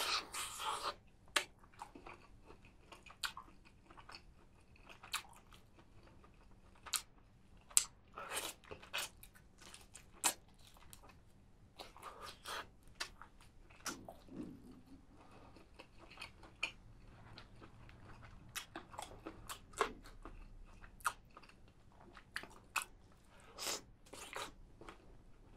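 A person chewing and biting into chicken, with many short, irregular crunches and clicks.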